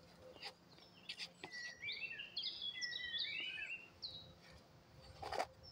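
A songbird singing a quick run of short, varied high notes for about three seconds, starting about a second and a half in, over faint outdoor background noise. A brief noisy sound comes near the end.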